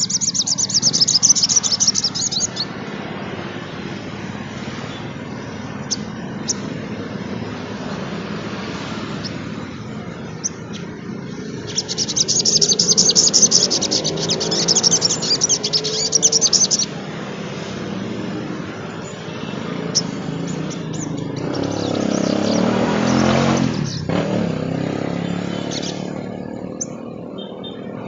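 Sogon trotol, a small sunbird-family songbird, singing fast, high, chattering trills in two long bursts, one at the start and one about twelve seconds in, with scattered short chirps between. About twenty-two seconds in, a low rumble swells and fades.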